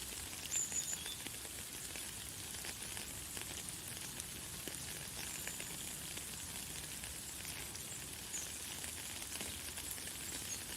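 Light, fine rain falling steadily as a soft hiss of many small drops. A few short, high bird chirps come through over it, the clearest about half a second in.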